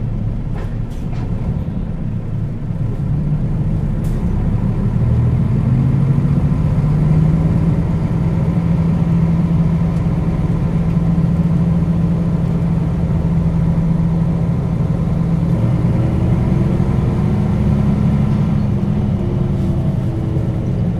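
Nissan Diesel KL-UA452KAN city bus diesel engine pulling away, its drone rising in pitch and then holding steady. About 15 seconds in the pitch drops and climbs again, like a gear change followed by more acceleration, and it falls off again near the end.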